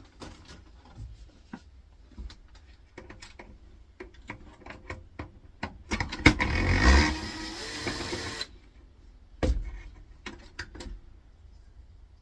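Clicks and knocks of an air fryer's parts being handled and worked loose during a teardown, with a louder scraping, rasping stretch about six seconds in that lasts a couple of seconds and a heavier knock a little later.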